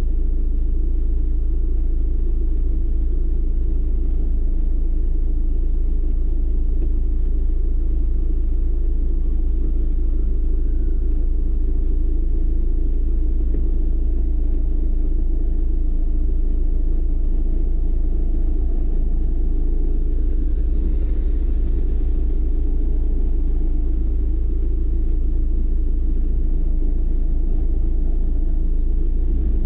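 Car driving at a steady pace: a continuous low rumble of road and engine noise that holds even throughout.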